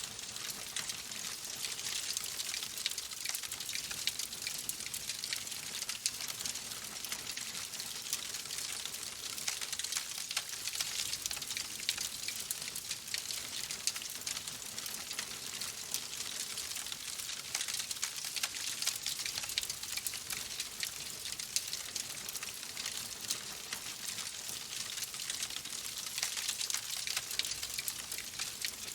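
Wood fire crackling in a fireplace: a steady, dense stream of small pops and snaps over a soft hiss.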